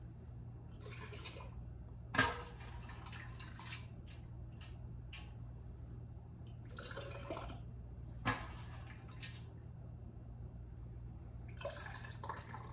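Chicken broth being ladled and poured into glass canning jars: several splashy pours a few seconds apart, with a couple of sharp clinks of the ladle on the jar or pot, over a low steady hum.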